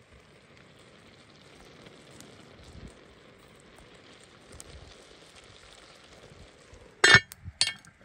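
Open wood cooking fire crackling with scattered faint pops over a steady low hiss. Near the end come two loud sharp knocks about half a second apart.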